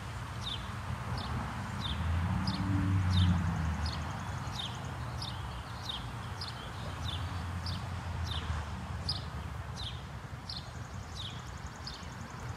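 A bird repeating a short, high chirp that slides downward, about every half second to two-thirds of a second, over steady outdoor background noise. A low rumble swells and fades about two to four seconds in.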